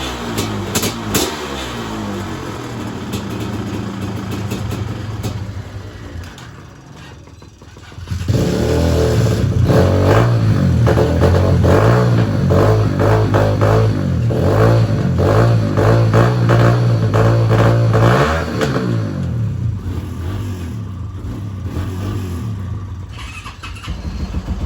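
Several dirt bike engines running together. Their revs fall away in the first seconds and the sound dips briefly; then one engine is held at high revs for about ten seconds before dropping back toward idle.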